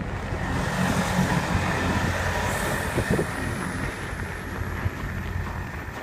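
A motor vehicle driving past, a steady engine-and-road noise with a thin high whine that rises slowly from about two and a half seconds in.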